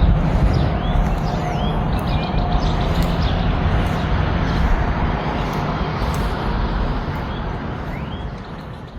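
Harley-Davidson V-twin motorcycle engine running steadily, with a few birds chirping; the sound fades out near the end.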